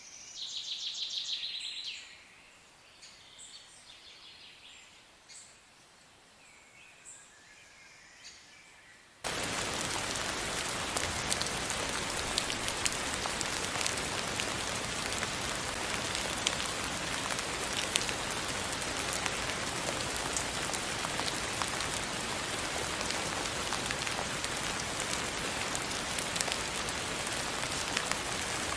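Birds calling, with a loud high trill at the start and softer scattered calls after it. About nine seconds in, this cuts suddenly to steady rain, with individual drops ticking through it.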